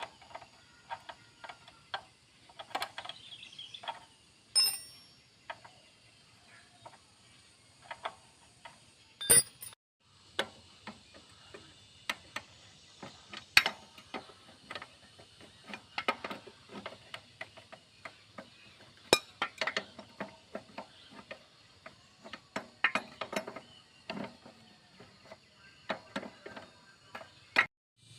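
Irregular clicks, clinks and knocks of hand tools and small metal parts being handled during motorcycle disassembly, with a few sharper knocks among them.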